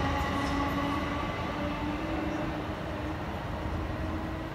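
Passenger train running away down the line, its rumble slowly fading, with a faint steady whine that rises slightly in pitch.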